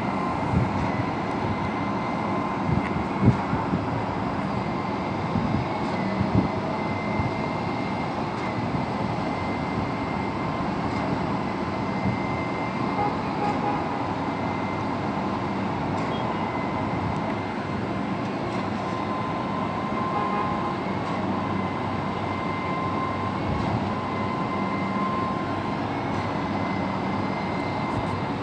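Heavy construction machinery engines running steadily with a faint whine, and a few sharp knocks in the first several seconds.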